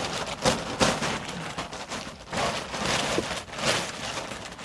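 Cut branches and sticks of firewood rustling and clattering as they are handled and stacked, a dense crackle of twigs with several louder knocks of wood on wood.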